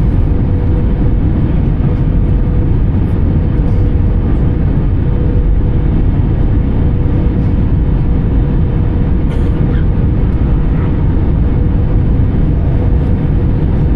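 Steady low rumble of an Airbus A320-214's CFM56 engines and airflow heard inside the cabin, with a faint steady hum running through it.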